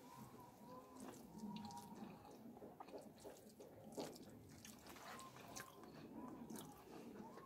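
Faint, wet mouth clicks and smacks of a person chewing rice up close, mixed with fingers squishing through sauce-soaked rice on a plate. The sharpest click comes about four seconds in.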